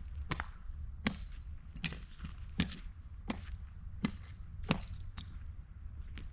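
Footsteps, seven evenly spaced sharp steps about one every three-quarters of a second, over a steady low rumble.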